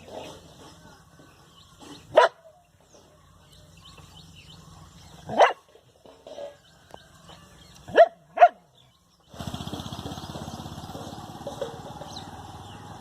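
A dog barking four times: single barks about 2 and 5 seconds in, then two quick barks close together near 8 seconds. A steady background hum and noise comes in after about 9 seconds.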